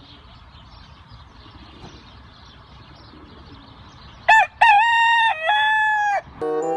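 A rooster crows once, a loud call about two seconds long that starts about four seconds in: a short opening note, then two long held parts. Before it there is only a faint steady hiss.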